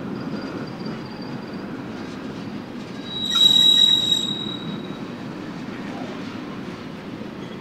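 Freight cars of a passing Union Pacific manifest train rolling by with a steady rumble. About three seconds in, a wheel gives a loud, high, steady squeal for about a second, then the rumble carries on.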